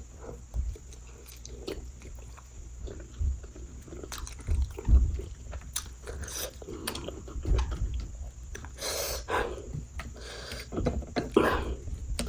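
Close-miked chewing and biting of food, with irregular wet mouth clicks and soft crunches. Two short breathy rushes come in the second half.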